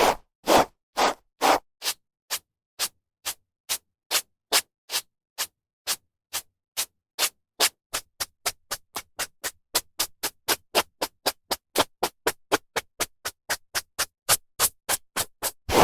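A brush drawn through hair again and again, each stroke a short swish with silence between. The strokes come at about one to two a second at first and quicken to about three a second in the second half.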